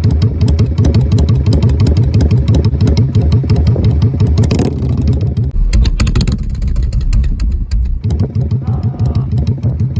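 Yamaha Drag Star 400's V-twin running through its muffler at idle, the exhaust beating in the uneven three-beat 'sanbyoshi' rhythm. For a few seconds in the middle the sound turns heavier and duller.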